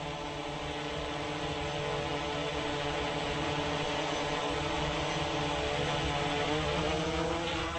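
Autel EVO 2 8K quadcopter in flight on Autel's low-noise propellers: a steady multi-tone propeller hum with a lower pitch than the stock props. Its pitch drifts slightly and it grows a little louder over the seconds.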